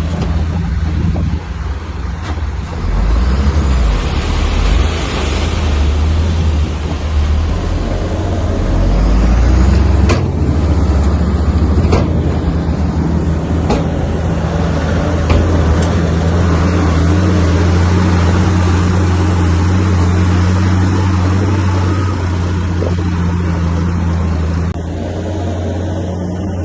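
Heavy diesel engine of a bulldozer at work, running steadily, with a few sharp knocks or clanks around the middle.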